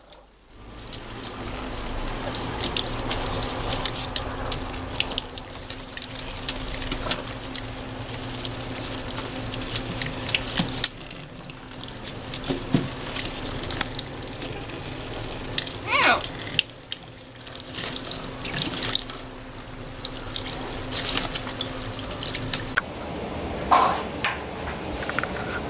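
Water running from a tap into a sink, with splashing and many small clicks. A short parrot squawk rises and falls about two-thirds of the way through, and another comes near the end.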